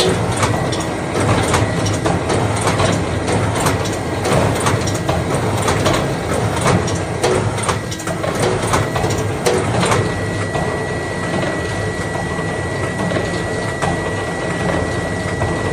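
Two rebar stirrup bending machines, one hydraulic and one CNC, running bending cycles together: a steady machine hum under a dense run of sharp metallic clanks and clicks, which thin out about ten seconds in.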